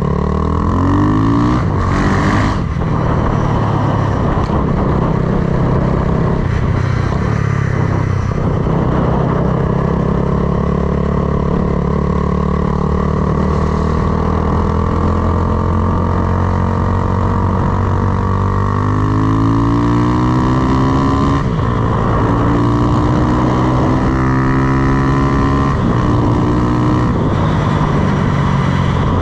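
Honda Grom with a swapped-in CBR300R single-cylinder engine being ridden. It revs up through the gears at the start, holds a steady cruise, then pulls hard again about two-thirds of the way through, shifting up a few times near the end.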